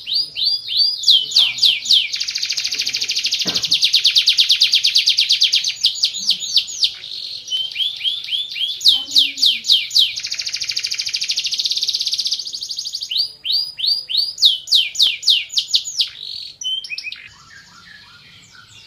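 Canary singing a long, loud song of rapid trills and rows of quick downward-sweeping notes, which stops about seventeen seconds in.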